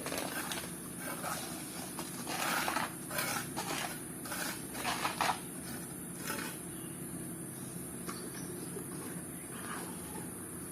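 Steady low mechanical hum with a steady high hiss, and a run of short scraping strokes between about two and five seconds in, typical of tools working wet concrete.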